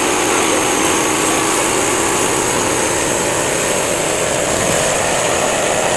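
Home-built band sawmill running steadily under its small engine, a continuous even mechanical noise.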